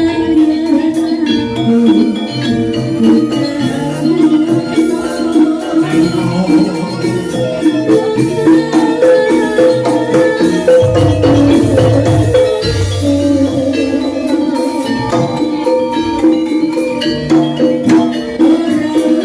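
Live gamelan music for a jaranan dance: struck metallophones ring out a busy melody over low gong tones, with sharp percussion strokes.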